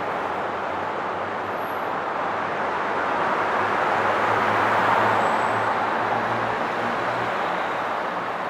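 Highway traffic: a steady rush of tyre and engine noise, swelling as a vehicle passes close about halfway through, with a low engine hum under it, then easing back.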